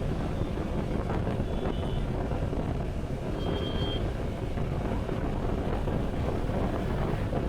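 Steady low rumble of wind and road noise on a motorcycle rider's camera microphone.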